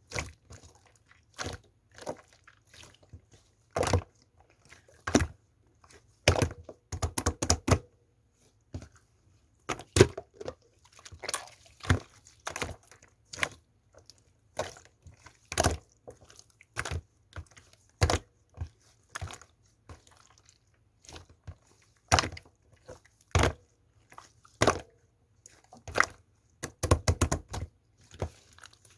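Hands pressing and squishing slime, giving irregular sharp clicks and pops from trapped air, sometimes several in quick succession.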